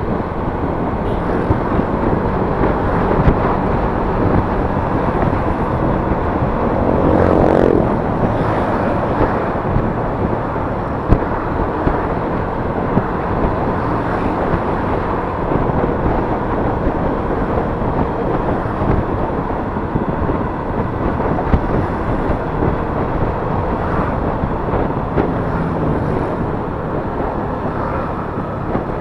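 Yamaha Mio S 125 cc automatic scooter running on the road, its engine mixed with steady wind and road noise as it rides. About seven seconds in, a louder engine note swells and fades for about a second.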